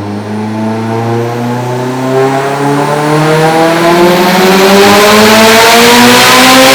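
Mitsubishi Evo X's turbocharged four-cylinder at full throttle through a dyno pull, the engine note rising steadily in pitch and growing louder as it climbs.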